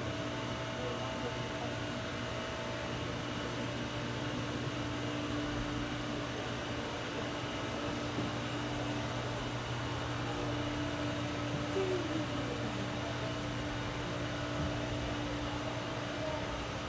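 Steady machinery hum with a few constant tones, lowest and strongest a low drone, from the ride boat and greenhouse equipment.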